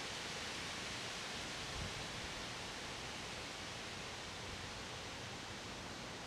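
Wind blowing steadily through leaves, a continuous rustling hiss, with a brief low gust rumble on the microphone about two seconds in.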